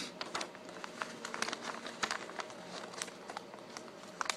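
A sheet of paper being folded and creased by hand: faint, irregular rustling and crinkling with many small clicks.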